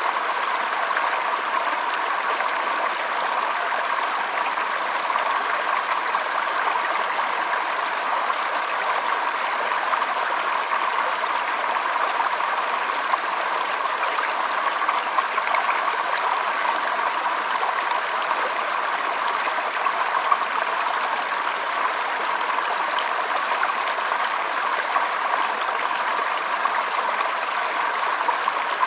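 Shallow stream trickling and burbling over stones, a steady flow of water.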